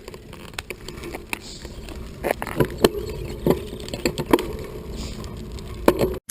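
Riding sound of a bicycle: a steady low wind and road rumble with irregular sharp clicks and rattles, about a dozen over the stretch, ending in an abrupt cut.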